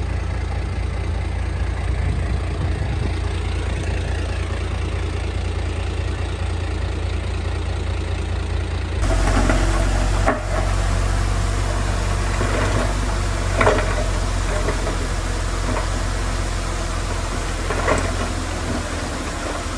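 Heavy diesel engine of earthmoving machinery running steadily with a deep low hum. About halfway through, the sound changes abruptly and grows fuller, and a few sharp metallic knocks or clanks come at irregular intervals.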